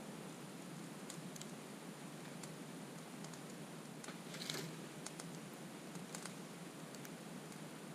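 Wood campfire crackling, with scattered small pops over a low steady hiss and a louder burst of crackles about four and a half seconds in.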